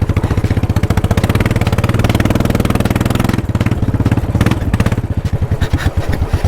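Royal Enfield Bullet's single-cylinder engine running loud with its silencer missing, a raw open-exhaust beat of rapid, even firing pulses. About three and a half seconds in, the throttle eases and the pulses slow and grow uneven. The silencer came off after its nut worked loose.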